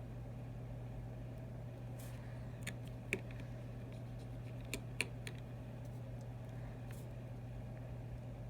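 A few small, sharp clicks of tools and tiny parts being handled during iPhone 6 reassembly, bunched between about three and five seconds in, over a steady low hum.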